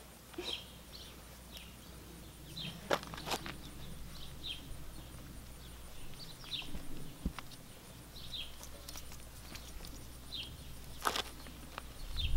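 Quiet outdoor ambience with a bird chirping repeatedly, a short high note every second or so, and a few sharp clicks of a horse's bridle being buckled.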